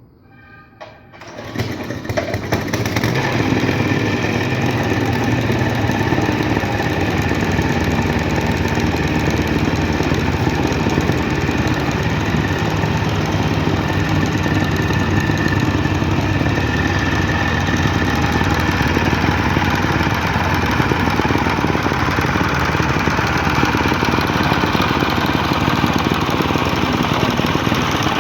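Soil compaction machine running and compacting soil: a loud, steady engine-and-vibration drone that swells up over the first two or three seconds, then holds even.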